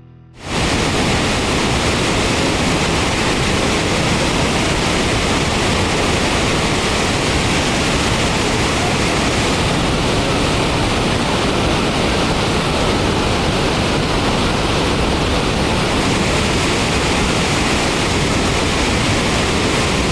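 Waterfall roaring: a loud, steady rush of falling water that starts abruptly about half a second in and holds unchanged.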